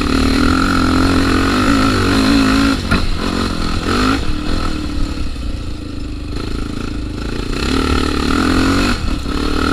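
Dirt bike engine running on the trail under changing throttle: strong and steady for the first few seconds, eased off through the middle, then building again near the end.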